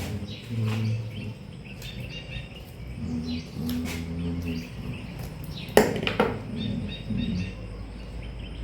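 Birds chirping over muffled low voices in the background, with a sharp knock about six seconds in.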